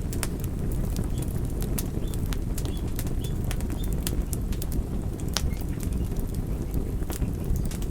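Campfire burning: wood crackling with many sharp irregular pops over a steady low rush of the flames.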